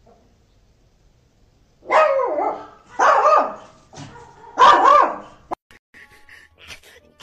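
A dog barking: three loud, drawn-out barks with a bending pitch, about a second apart, starting about two seconds in, with a softer one among them.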